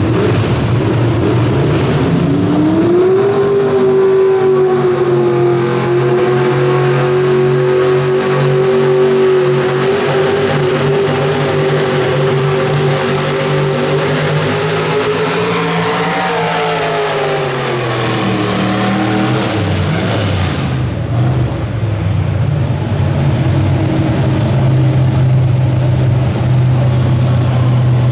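Pulling truck's engine run up to full throttle about two seconds in, holding a high, steady pitch under load for over ten seconds, then dropping away around seventeen seconds in as the throttle comes off, settling to a lower steady run.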